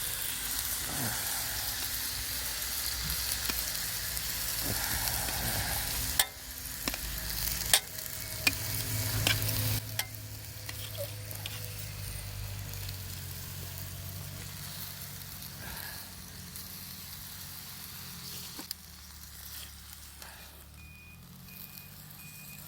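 Food sizzling as it fries in a pan over a campfire, loud for about the first six seconds and then quieter, with a few sharp clinks between about six and ten seconds in.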